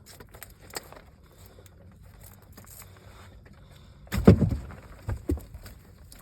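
Handling noise in a fishing boat while nets are worked: small clicks and rustling, then a loud thump with a rattle about four seconds in, followed by two lighter knocks.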